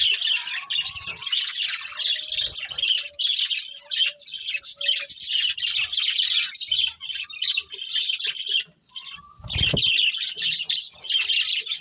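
A colony of budgerigars chirping and chattering continuously in many overlapping high, quick calls. The chatter dips into a brief lull about three-quarters of the way through, followed by a short low thump.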